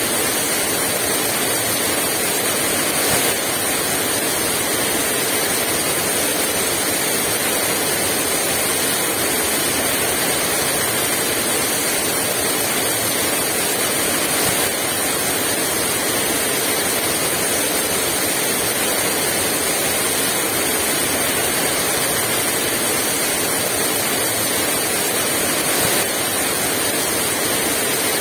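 Heavy rain pouring steadily, with no wind.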